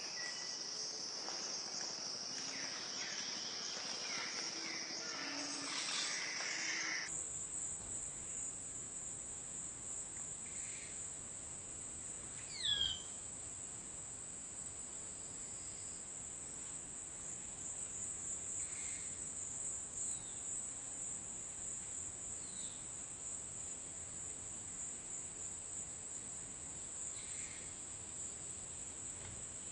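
A steady, high-pitched insect chorus that switches abruptly about seven seconds in to a different, higher-pitched insect chorus, with scattered short bird calls over it; one louder, sweeping bird call comes about thirteen seconds in.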